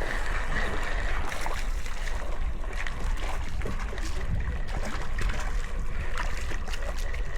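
Wind rumbling on the microphone over water lapping and sloshing around a kayak, with scattered small clicks and splashes.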